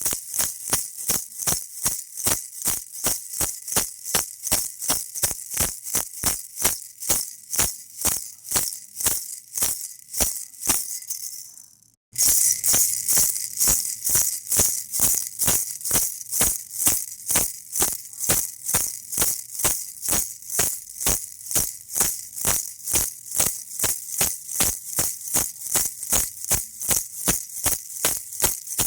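Baby rattle shaken in a steady, even rhythm, about two and a half shakes a second, with a bright, high rattle. It fades away about ten seconds in, then starts again suddenly at full strength about twelve seconds in.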